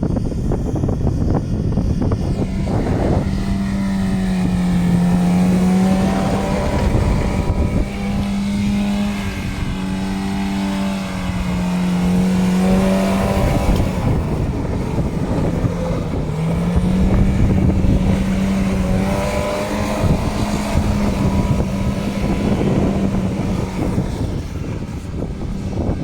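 Ford Taunus 1.6 GL's four-cylinder engine revving hard while drifting, its pitch held high and dipping and recovering several times.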